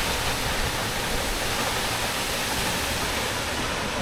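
Hunua Falls waterfall: a steady rush of falling water.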